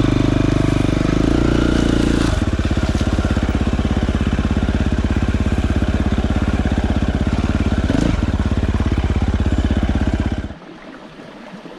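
Dirt bike engine running, settling to an idle about two seconds in, then switched off near the end.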